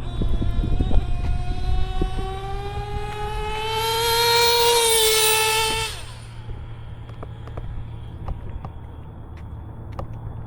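Small nitro engine of a Traxxas T-Maxx RC truck, a JL MAX .28, at high revs on a speed run. Its high-pitched whine climbs steadily for about six seconds as the truck accelerates and grows louder, then drops away abruptly.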